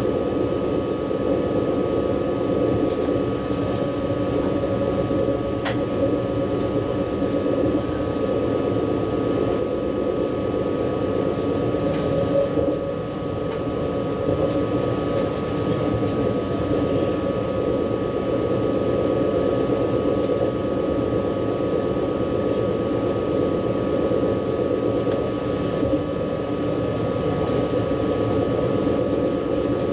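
Steady running noise of an ICE high-speed train heard from inside the driver's cab: an even rumble with a constant whine of two close tones above it. There is a short click about six seconds in.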